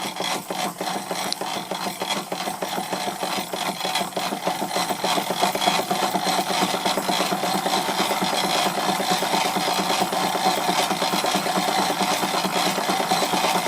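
Stuart Victorian mill engine, a model steam engine, running and driving a Wilesco fairground model through its right-angled gear, with a fast, even mechanical chatter. It grows gradually louder as the engine is speeded up and the table starts to vibrate.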